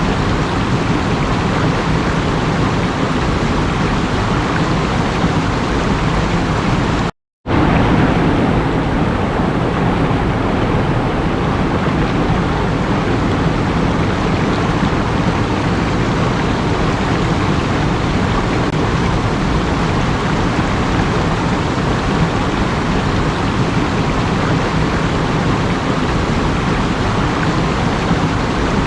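Steady rushing of running water. It cuts out completely for a moment about a quarter of the way through, then resumes with a slightly different character.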